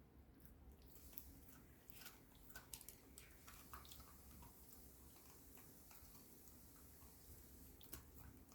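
A puppy gnawing a dog chew: faint, irregular clicks and crunches, busiest from about two to four seconds in, with one sharper click near the end.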